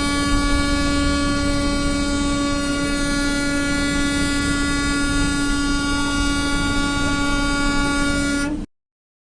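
A vehicle horn held down in one long, steady, unbroken blast, ending abruptly about eight and a half seconds in.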